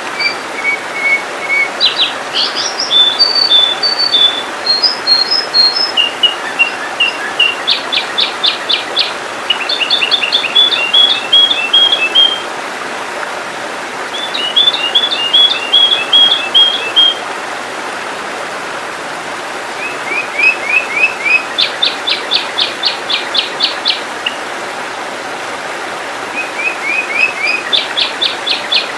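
Sooty-headed bulbul (kutilang) calling in repeated bursts: short whistled notes and fast trilled chatters, with pauses of a second or two between bouts, over a steady hiss.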